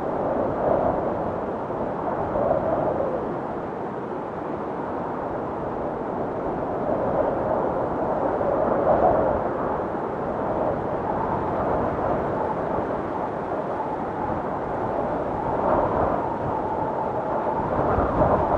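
Blizzard wind blowing steadily, a continuous rushing noise that swells and eases in gusts every few seconds.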